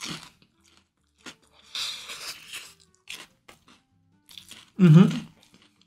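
Mouth sounds of someone chewing a crunchy panko-breaded corn dog filled with sausage and mozzarella, close to the microphone: crackling crunches and wet clicks, loudest about two seconds in. A brief voiced sound from the eater comes near the end.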